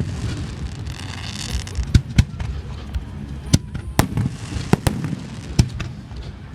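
Aerial fireworks shells bursting in a string of sharp bangs at uneven intervals, with a crackling hiss about a second in from crackle-effect shells.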